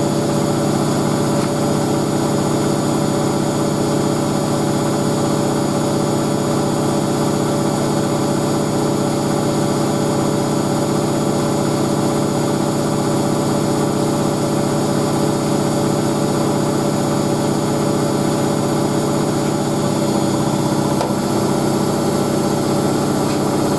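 Hoover A3060 Electronic 1100 washing machine spinning its drum at a steady high speed, its motor giving an even hum that holds constant throughout.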